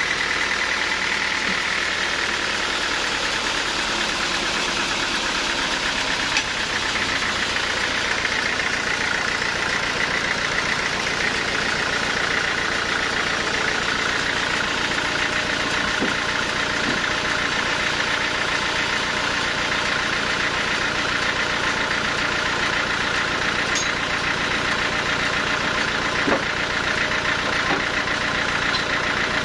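Sawmill machinery running steadily, a continuous engine-like drone with a few light knocks.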